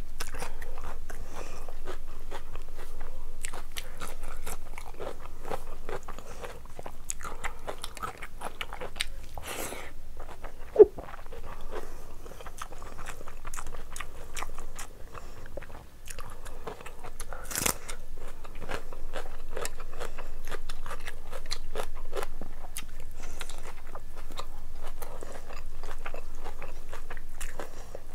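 Close-up eating sounds of a person chewing a mouthful of rice and curry: a dense run of many short clicks and crunches, with one sharp click about eleven seconds in and a louder one a little past halfway. Fingers mix rice and curry on a plate between mouthfuls.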